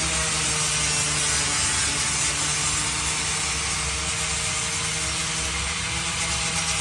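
Electric power sander running steadily against a wooden board, a constant motor hum under a loud sanding hiss.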